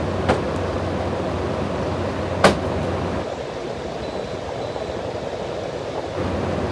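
Frigidaire 6000 BTU window air conditioner running its fan with a steady low hum, broken by two sharp clicks, the second louder, about two and a half seconds in. The compressor is not kicking on.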